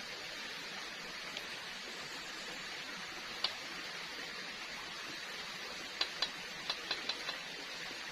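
A few sharp clicks over a steady hiss: one about a second and a half in, one about three and a half seconds in, and a quick run of six over the last two seconds, like a knife tapping a board while food is sliced.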